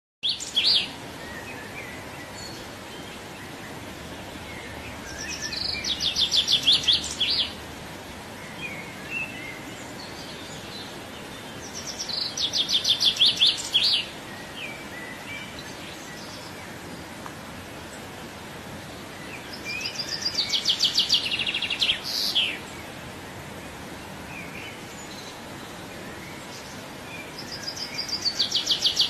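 A songbird singing the same high trilled phrase four times, about every seven or eight seconds: a fast run of notes that grows louder, then a few separate downward notes at the end. Steady background hiss runs underneath.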